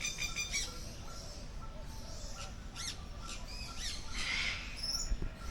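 Birds calling: scattered short chirps and high whistles, with one harsh squawk about four seconds in and a short note repeating two or three times a second throughout.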